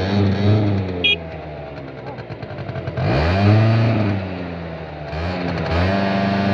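PMX motorcycle engine being revved: a few quick blips, then a long rev about three seconds in that climbs and falls back, and another rev held near the end. A brief high chirp sounds about a second in.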